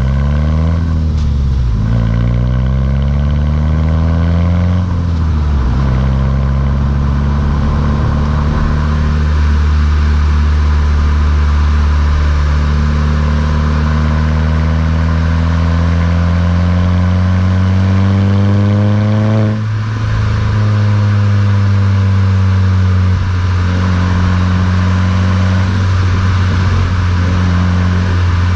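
Mk6 Volkswagen GTI's turbocharged four-cylinder engine through a Beluga aftermarket exhaust, under way: the note rises and falls with the revs, drops about five seconds in, then climbs slowly and steadily in pitch. About twenty seconds in the pitch falls suddenly with a brief dip in loudness, as at a gear change, and it then holds a lower steady note.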